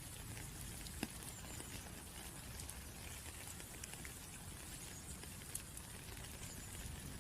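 Rain falling, with scattered drops ticking on a hard surface over a steady patter. A sharper drop lands about a second in.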